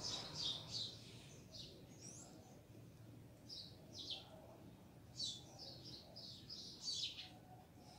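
Small birds chirping faintly: short high chirps come every second or so, busiest in the second half.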